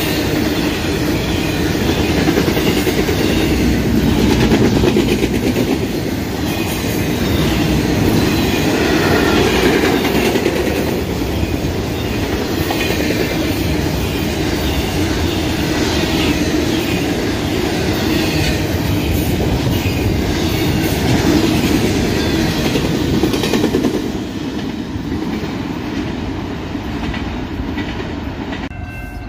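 Double-stack intermodal freight train passing close by: steady rolling rumble with wheels clicking over the rail joints. About 24 seconds in it gives way to a quieter, more distant rumble, and a train horn starts to sound right at the end.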